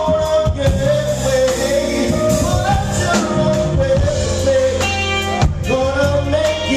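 Live R&B band playing, with a singer holding long, slightly bending notes over bass, guitar and drums.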